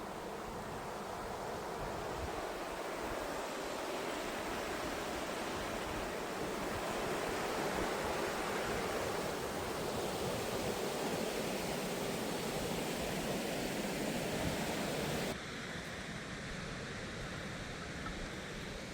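Tall waterfall (South Falls) rushing: a steady, dense roar of falling water. About three-quarters through it drops abruptly to a quieter, thinner rush.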